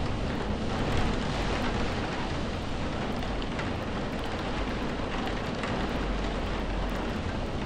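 Steady rain: an even hiss with a deep low rumble beneath it and faint scattered drop ticks.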